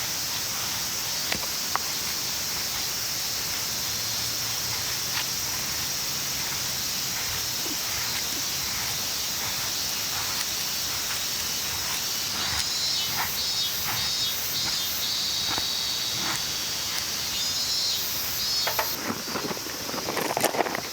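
Steady high-pitched chorus of summer insects, with short bursts of rapid high chirps in the second half and scattered light clicks and rustling that grow louder near the end.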